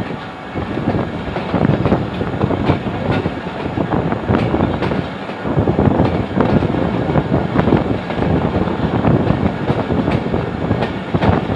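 A train running along the track, heard from on board: a loud, steady rumble with the clatter of the wheels on the rails.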